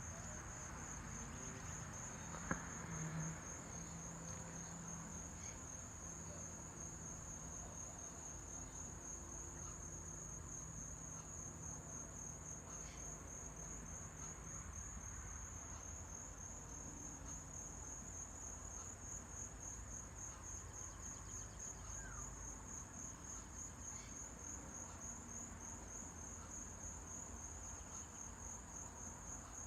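Crickets chirping in a steady, fast-pulsing high-pitched chorus, with a single click about two and a half seconds in.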